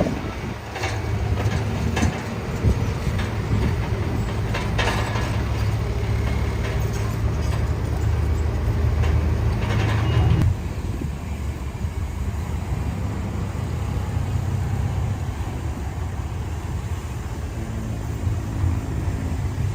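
Heavy diesel earthmoving machinery running steadily, with clanking and rattling through the first half. The sound changes abruptly about halfway through to a smoother engine drone.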